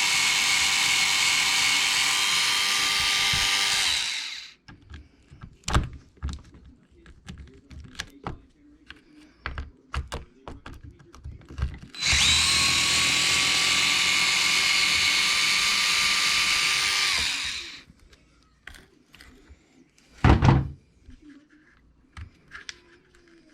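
Cordless power screwdriver running twice, each time for about five seconds with a steady whine, backing out screws from an RC truck's differential housing. Small clicks of handling come between the runs, and there is a single thunk near the end.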